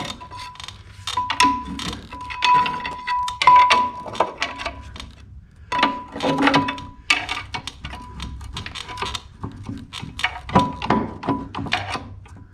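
Metal clinks and knocks of tools and parts being handled while a flywheel is fitted to an engine, with a thin steady whine that comes and goes.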